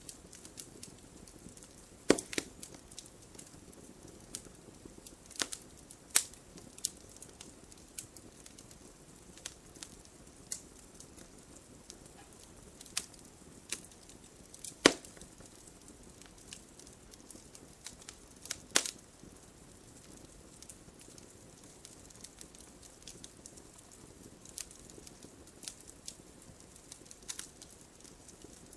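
Wood fire crackling in a fireplace: burning logs give irregular sharp pops and snaps over a soft steady hiss, with three louder pops about 2, 15 and 19 seconds in.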